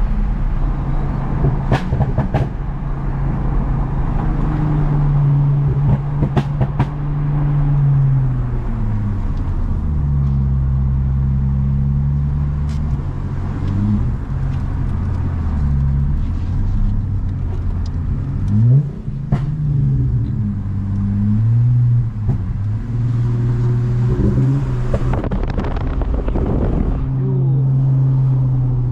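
Toyota Mark X V6 with a modified exhaust, driving on the road with a loud exhaust drone. The engine note falls and rises several times as the car speeds up and slows, with a few short knocks along the way.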